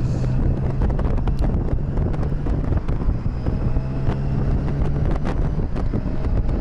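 Motorcycle riding at road speed: a steady engine hum under wind buffeting the microphone, with scattered small clicks.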